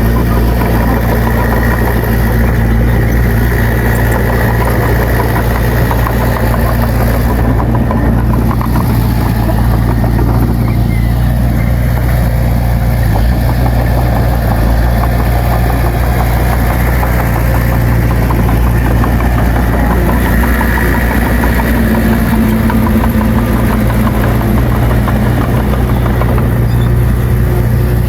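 Diesel engine of a bulldozer running steadily, a deep constant drone with no change in speed.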